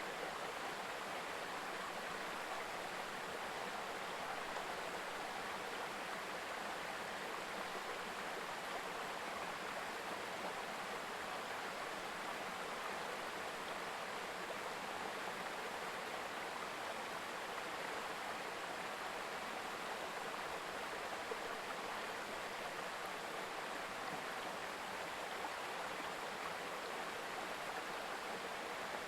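Mountain stream babbling steadily, an even rush of water with no breaks.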